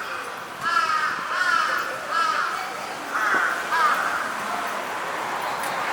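Crows cawing: a series of about six harsh caws, some in quick pairs, over the first four seconds.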